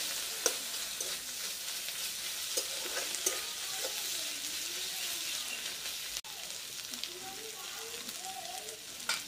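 Chopped onions, green chillies and ginger-garlic paste sizzling in hot mustard oil in a metal kadai. A metal spatula stirs and scrapes through them, with a few sharp clicks of the spatula against the pan.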